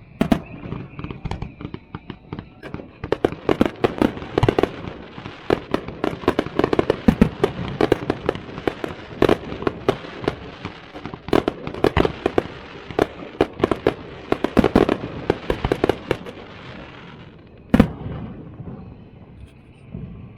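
Fireworks going off: a dense run of bangs and crackling that thins out about seventeen seconds in, then one last loud bang.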